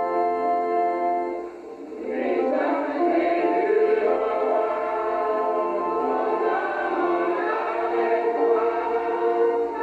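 Music: held instrumental chords that fade out, then from about two seconds in a choir singing.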